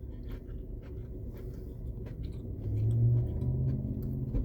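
Low rumble inside a car's cabin, with a few faint clicks and rustles; a low drone swells about two and a half seconds in and eases off again.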